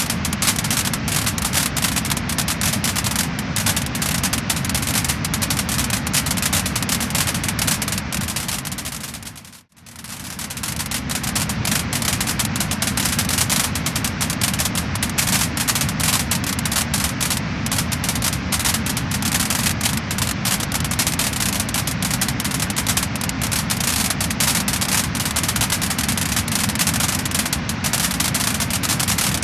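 Wood fire crackling and popping: a dense run of small snaps over a steady hiss. About ten seconds in it fades briefly to silence and swells back.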